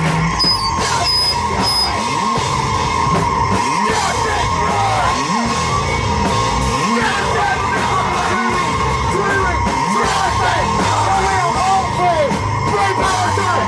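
Live band playing loud, distorted rock or noise music with yelled vocals, a steady high tone sounding through it.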